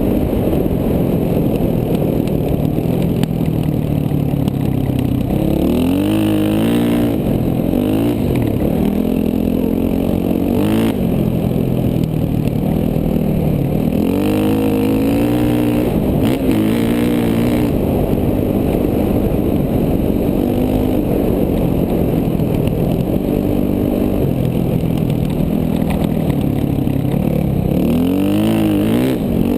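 KTM 450 dual-sport dirt bike's single-cylinder four-stroke engine running under way. The revs rise and fall in several quick swings as the rider works the throttle and gears.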